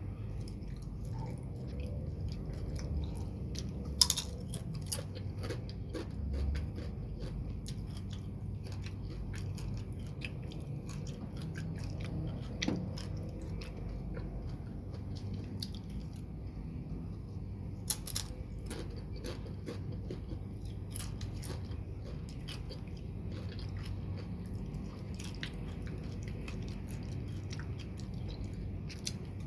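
Someone chewing crunchy chips (keripik) close to the microphone, with scattered crisp crunches, the sharpest about four seconds in and again around eighteen seconds, over a steady low background hum.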